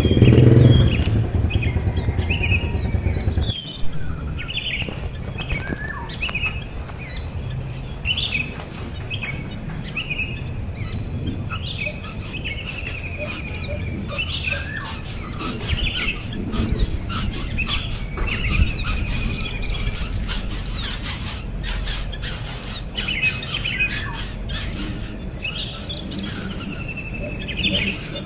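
Small birds chirping in many short, repeated calls over a steady high-pitched drone. A low engine rumble fades out in the first few seconds.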